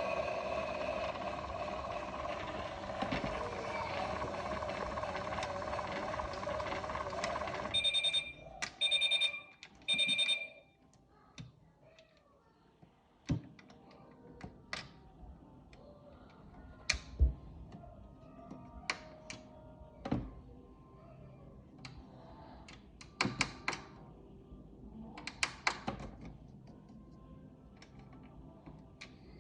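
Klein Miele toy washing machine running its battery-powered wash cycle with a steady electronic washing sound, which stops after about eight seconds and is followed by three short beeps that signal the end of the cycle. After that come scattered plastic clicks and knocks from the machine being handled.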